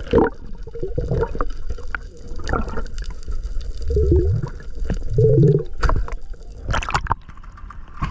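Water sloshing and gurgling, with several sharp splashes and a couple of low, muffled gurgles.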